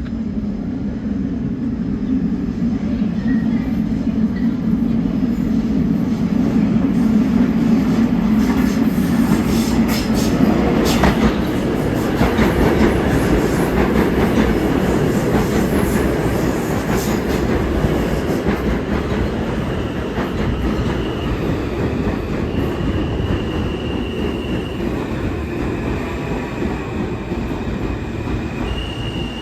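R160 subway train running along the track with a heavy, steady rumble that grows louder toward the middle, with a run of rail-joint clicks. From about two-thirds of the way through, a thin high whine comes and goes in short steps of pitch.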